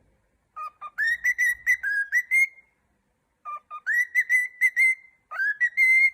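Male cockatiel whistling its song: three runs of quick, bright whistled notes that slide up and down in pitch, with short pauses between them.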